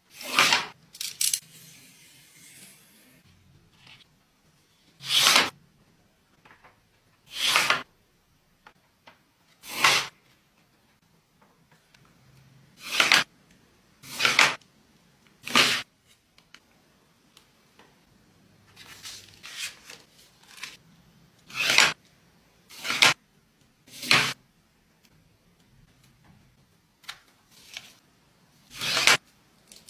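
Paper being handled: about a dozen short, separate rustling strokes spread unevenly, each under a second.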